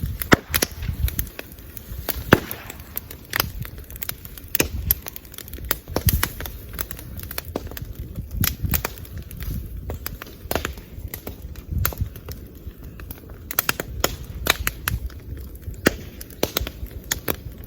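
Bamboo bonfire crackling, with irregular sharp pops and cracks several times a second and a few louder bangs over a low rumble: the pops come from the bamboo culms bursting in the heat.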